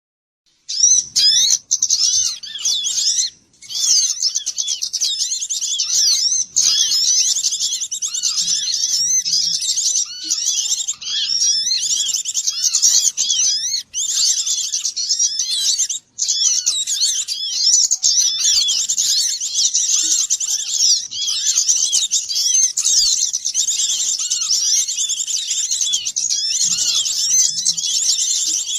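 A dense chorus of many small birds chirping and twittering at once in high, overlapping calls. It is a lure recording of a noisy small-bird flock, used to draw small birds in. It starts just under a second in and runs on with only brief dips.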